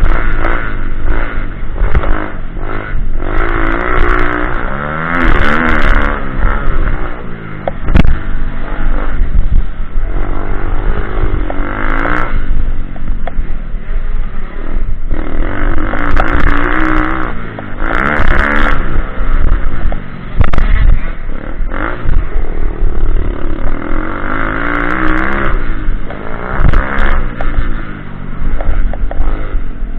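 Pitbike engine running loud, revving up and falling back again and again as the throttle is opened and closed, with scattered clatter.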